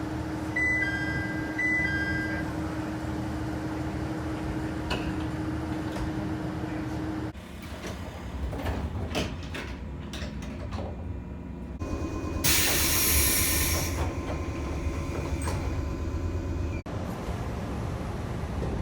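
JR local trains' doors closing in a run of short clips. A two-note door chime sounds twice near the start over a steady hum, with knocks as the door panels slide shut. About twelve seconds in comes a loud hiss of air lasting about a second and a half, typical of a pneumatic door engine.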